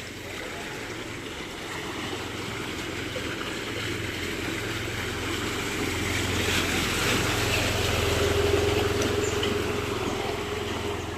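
A motor vehicle driving through floodwater: a low engine hum that grows louder to a peak about eight seconds in and then eases off, over a wash of moving water.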